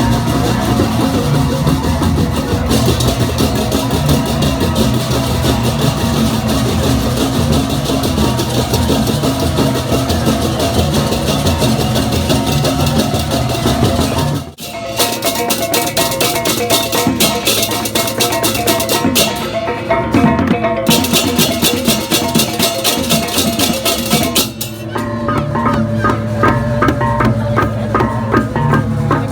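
Balinese gamelan procession music: drums, gongs and clashing metallic percussion playing in a dense, fast rhythm. The music cuts off sharply and resumes with a changed texture twice, about halfway through and again near the end.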